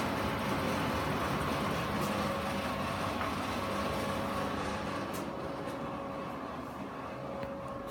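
Ultrasonic humidifier running: a steady mechanical hum with a faint whine, easing slightly in the second half, and a few light clicks.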